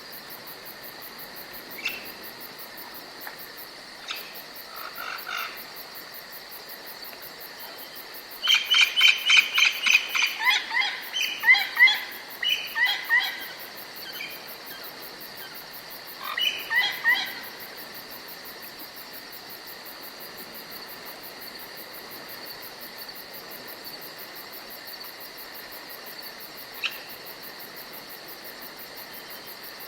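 Forest ambience: a songbird sings a loud, rapid phrase of repeated notes that falls in pitch, about a third of the way in, then a shorter phrase a few seconds later, with a few single chirps elsewhere. Under it runs a steady high insect drone, like crickets.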